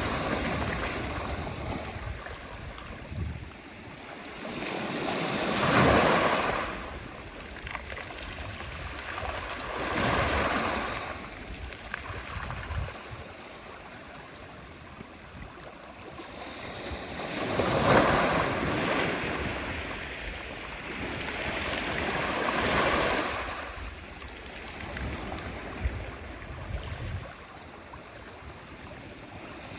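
Sea waves breaking on the shore: the surf swells and recedes every few seconds, with the biggest breakers about a fifth of the way in and again just past halfway.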